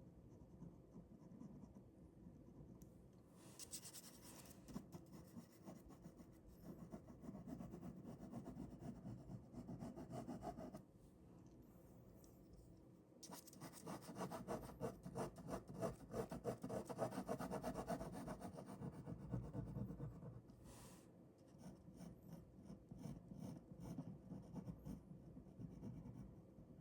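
Ballpoint pen drawing on paper: soft, quick scratching strokes that pause briefly near the middle, then come thick and fast before easing into lighter, sparser strokes near the end.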